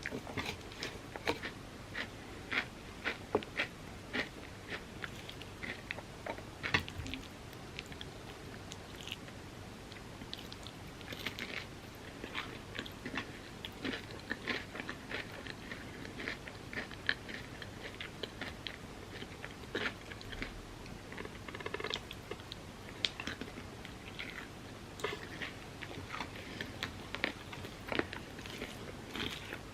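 Close-miked chewing and biting of Biscoff overnight oats topped with hardened chocolate and crispy pistachio kataifi, with many short crunches at an irregular pace.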